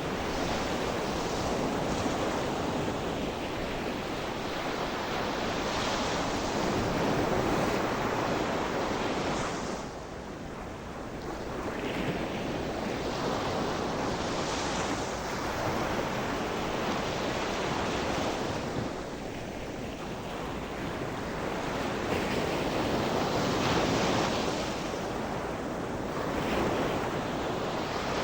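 Sea waves breaking on a shore and washing back, swelling and ebbing every few seconds.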